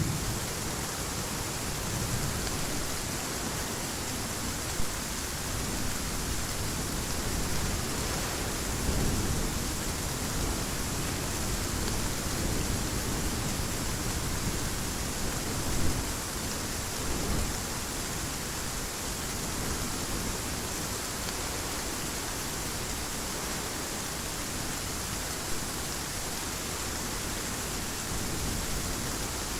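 Steady heavy rain hiss, with a low thunder rumble fading out at the start and a couple of faint, distant rumbles about a third and halfway through.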